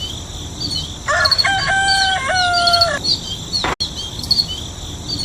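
A rooster crowing once in a stepped call lasting about two seconds, over the steady high chirping of small birds or insects.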